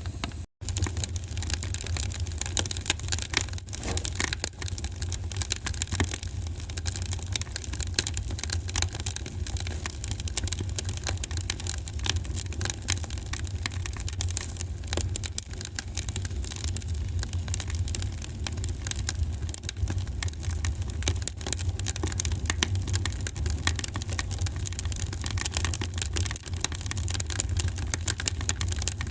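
Wood fire in a fireplace crackling: a dense run of small irregular pops over a steady low rumble. The sound drops out for an instant about half a second in.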